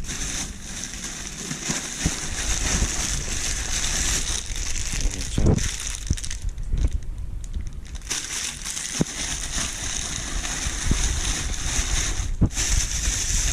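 Packaged goods and plastic wrapping being handled and rummaged through, with irregular rustling and crinkling and a few light knocks, the firmest about five seconds in.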